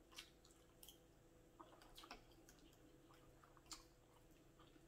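Faint chewing of cheesy scrambled eggs, with a few soft, scattered clicks.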